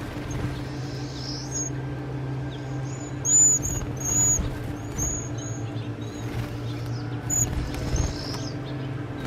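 Small birds chirping: a run of short, high chirps, loudest around three to four and a half seconds in, over a steady low hum.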